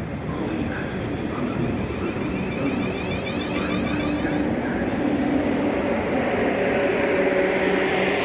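A train running at a station: a steady rumble and hiss with faint humming motor tones, growing slightly louder toward the end.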